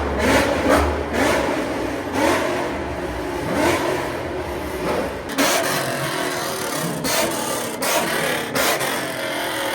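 Car engine revving repeatedly under a loud rushing noise; from about five seconds in, the low engine note drops away and several sharp cracks stand out.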